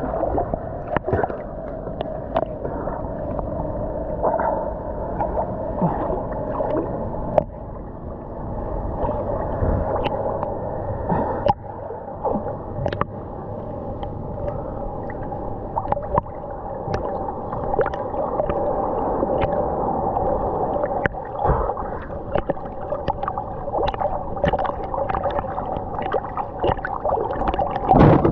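Muffled water sloshing and gurgling with many small clicks and splashes, over a steady faint hum.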